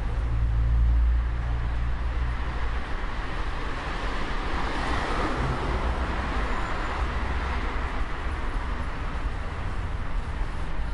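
Night street ambience: a steady low traffic rumble, with a vehicle passing by that swells and fades about the middle.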